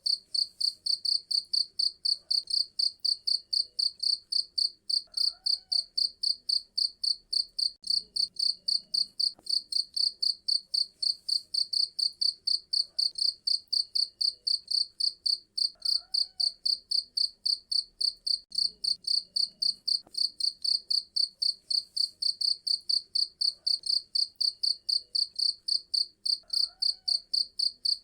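Cricket chirping steadily in a fast, even rhythm of high-pitched pulses, about four chirps a second.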